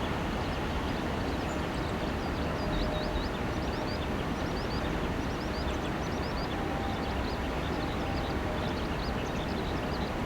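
Steady outdoor rushing noise with small birds chirping quickly and repeatedly over it.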